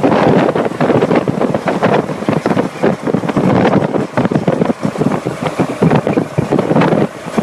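Wind buffeting the microphone: a loud, rough, fluttering rush with no steady tone.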